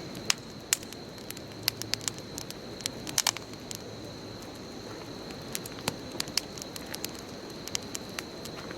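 Wood bonfire burning: a steady low rush of flame with irregular sharp crackles and pops, a quick cluster of them about three seconds in.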